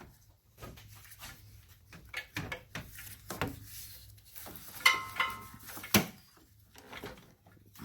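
Scattered clicks and knocks of tools and metal parts being handled while an alternator is worked loose in a car's engine bay. There are two brief squeaks about five seconds in and a sharp knock about a second later.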